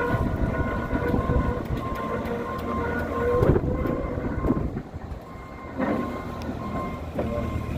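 Bobcat running under load as it tows a 1922 Rumely OilPull 16-30H on a chain to pull-start it, with a steady whine over a rumble. The Rumely's big two-cylinder engine is being turned over but does not catch, as it is not getting fuel.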